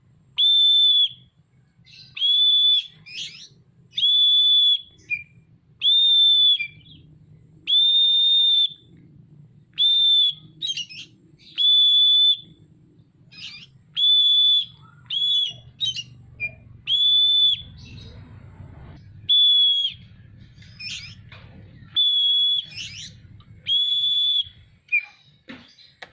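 Oriental magpie-robin (kacer) in full song: about a dozen long, level whistled notes roughly every two seconds, with short chirps and quick rising and falling notes between them.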